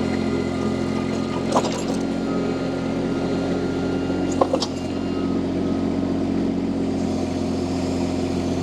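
Mini skid steer loader's diesel engine running steadily at constant speed, with two short sharp clanks about one and a half and four and a half seconds in.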